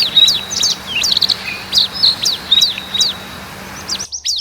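Small aviary birds chirping busily: quick high chirps several times a second, each sliding down in pitch. The background hiss drops away near the end while the chirping continues.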